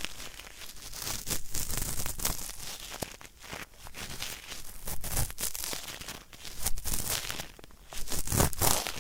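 Ear-cleaning tool scraping and crackling in an ear up close: uneven scratchy strokes that swell and fade about once a second, like hard earwax being worked loose.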